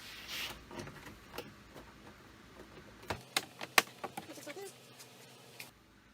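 A brief rustle, then from about three seconds in a quick run of sharp plastic clicks and taps, the loudest near four seconds, as the Jeep Wrangler JK's interior door trim is handled and pressed into place.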